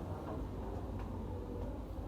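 Steady low background hum, with a faint tick about a second in.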